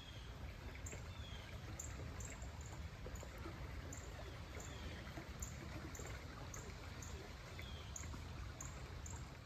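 A stream running steadily, with birds chirping high and repeatedly over it, plus a few short downward-sliding calls.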